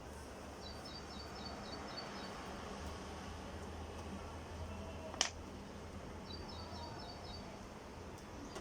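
A small bird chirping in the background: two quick runs of about six high chirps each, several seconds apart, over a steady low hum. A single sharp click about five seconds in.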